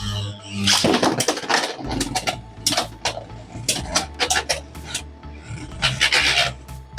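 Two Beyblade X spinning tops, Hells Reaper and Perseus Dark, grinding and clashing in the stadium: a fast, uneven run of sharp hits and scraping. Background music plays underneath.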